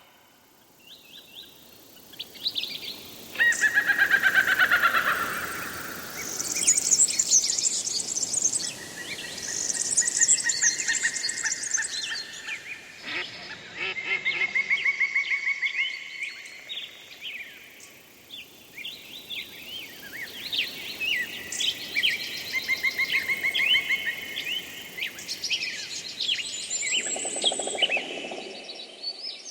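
Several songbirds singing at once: overlapping rapid trills, chirps and short whistled phrases, with loud bursts coming and going every few seconds.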